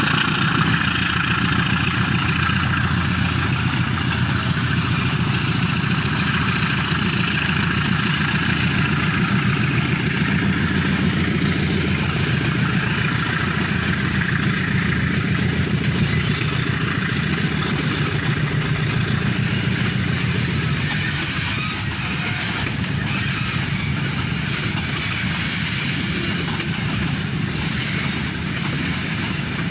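Diesel freight train with a pair of GE U13B locomotives running, a steady engine drone over rolling noise. The sound eases slightly about two-thirds of the way through.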